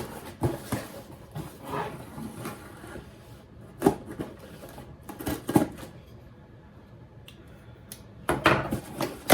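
A shipping box being opened and the packaged items inside handled: scattered knocks, clicks and rustles of cardboard and plastic packaging, with a longer rustle near the end.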